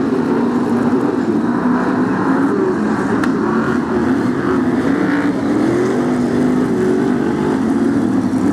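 Several BriSCA F1 stock car engines running together at racing speed around the oval, their pitches wavering up and down as the cars lap.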